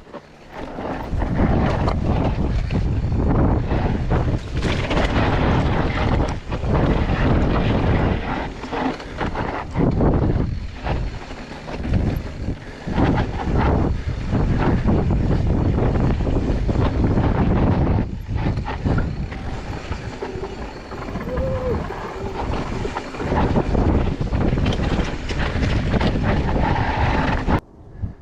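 Mountain bike riding a dirt trail: wind rushing over the microphone, and tyres and bike rattling over the ground, rising and falling with the terrain. It cuts off suddenly near the end.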